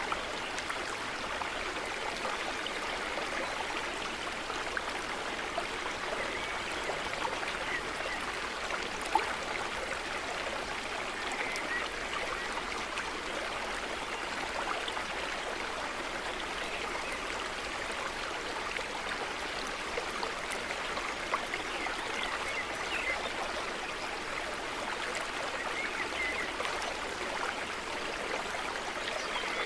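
Small stream of running water babbling steadily over stones, with one brief sharp click about nine seconds in.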